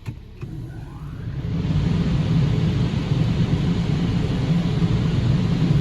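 Automatic car wash air dryer blowers coming on about a second in, rising into a loud, steady rushing with a deep rumble.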